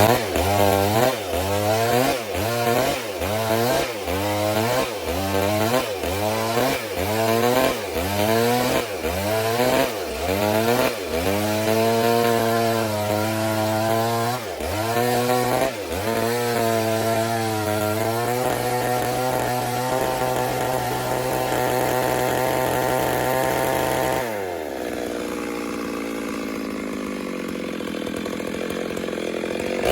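Stihl MS 382 two-stroke chainsaw running hard while ripping a log, its engine speed dipping and recovering about one and a half times a second. It then holds a steady high speed, and drops to a lower, quieter speed about 24 seconds in.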